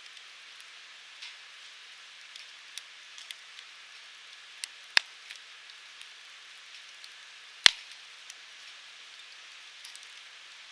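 Wood fire crackling with a steady hiss, small ticks and snaps throughout, and two sharp pops, one about five seconds in and a louder one near eight seconds.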